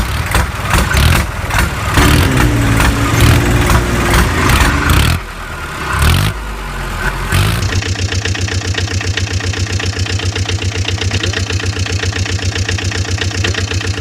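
Engine sound: irregular clattering for the first few seconds, then settling into a fast, even putter like a small engine idling.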